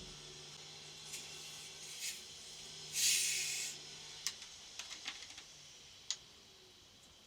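A short, loud hiss about three seconds in, with two fainter hisses before it, then a few light clicks and taps; a low steady hum stops about four seconds in.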